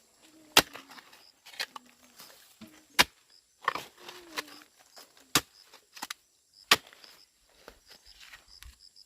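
A hand tool striking hard material: about seven sharp knocks at uneven intervals, a second or so apart.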